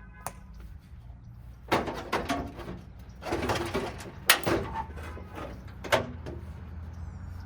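Steel truck fender being worked loose and pulled off: scraping, rattling and several metal clanks, the sharpest a little past four seconds in.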